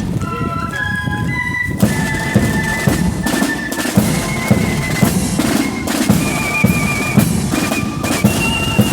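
Marching flute band playing: high flutes carry a single melody line over snare drums and a bass drum beating time.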